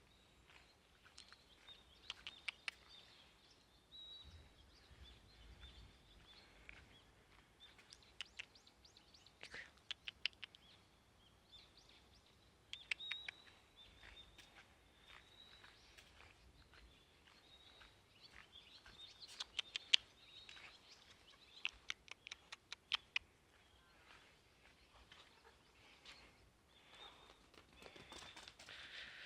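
Faint bird chirps coming in short rapid runs every few seconds, over a thin steady high tone in quiet outdoor background.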